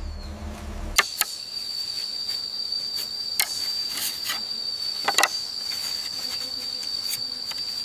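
Steady, high-pitched insect trill of a cricket-type chirrup, with a few sharp clicks scattered through it. A low hum fills the first second before the trill starts.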